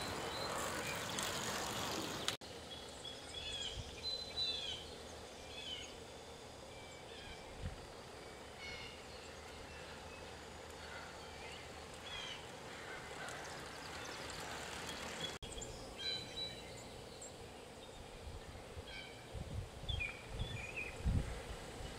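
Quiet outdoor background with small birds chirping intermittently, broken twice by sudden cuts, and a few low thumps near the end.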